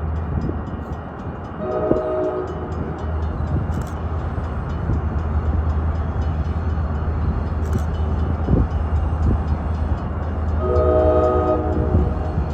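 Freight train with a diesel locomotive running with a steady low rumble. Its air horn sounds twice: a short blast about two seconds in and a longer one near the end.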